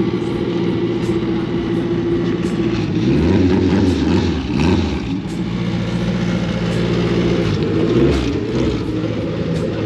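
Car engine running at a steady speed, blipped up and down in revs twice, first from about three seconds in and again near the end.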